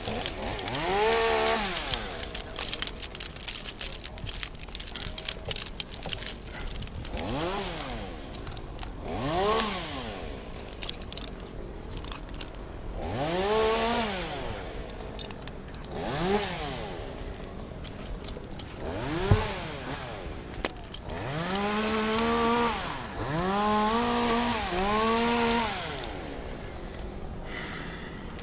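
Chainsaw revved up and let back down, about nine separate throttle blips each lasting around a second. A scatter of sharp clicks and metal rattles comes in the first few seconds.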